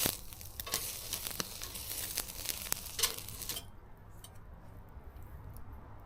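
Asado beef cut sizzling on a grill over a wood fire, with scattered sharp crackles and ticks; the sizzle drops away about three and a half seconds in, leaving fainter ticks.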